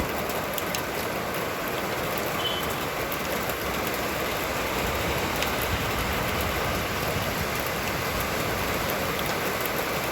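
Steady rain falling, an even hiss with scattered faint drop ticks, with wind buffeting low underneath.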